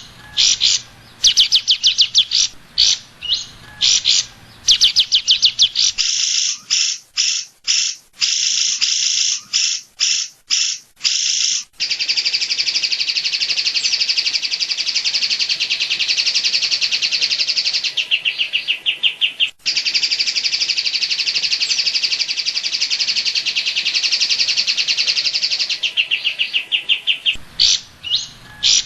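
Cucak ijo (greater green leafbird) singing rapid-fire 'tembakan' phrases of fast, high repeated notes: short stuttering bursts at first, then about halfway in one long unbroken rattling run lasting some fifteen seconds, breaking back into short bursts near the end.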